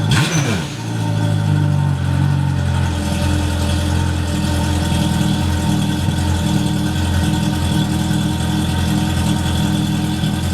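2013 Yamaha FZS personal watercraft's supercharged four-cylinder engine running through a Riva thru-hull exhaust: a throttle blip falls away in the first second, then the engine idles steadily.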